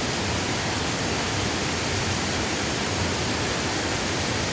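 Water rushing steadily over a shallow river waterfall, a constant even roar.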